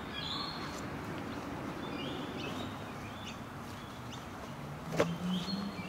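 Birds chirping over steady outdoor background noise, with one sharp click about five seconds in.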